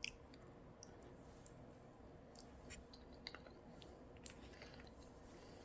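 Faint sounds of someone chewing avocado: a few soft, scattered mouth clicks.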